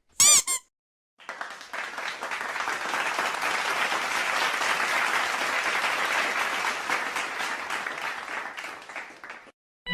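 A short pitched blip, then applause from a crowd that sets in about a second in, holds steady and fades out near the end.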